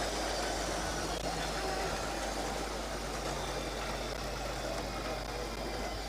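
Aircraft engines running steadily on the tarmac after landing, a dense rushing noise with a high whine that slowly falls in pitch.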